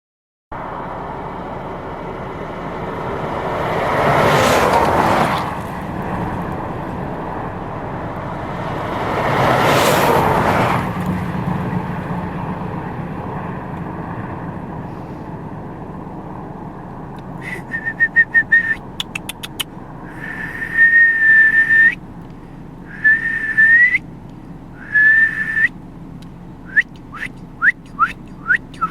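Two vehicles pass by on the road, each a broad rise and fall of road noise. In the last third a person whistles to call a bald eagle: a quick run of short pips, then one long held note, then short whistles and several quick upward-sweeping ones.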